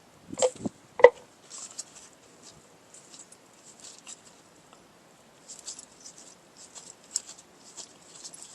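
Hand work on a rear drum brake's adjuster: two light metal clicks about half a second and a second in, then scattered faint scratchy ticks, as lubricant is put on the adjuster to keep it from seizing up again.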